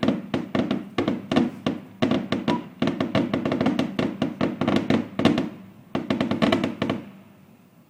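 A rapid barrage of fireworks going off, several bangs a second with echoing tails, dying away about seven seconds in.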